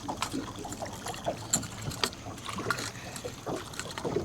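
Irregular light knocks, clicks and rustles from a freshly landed catfish and tackle being handled in a boat.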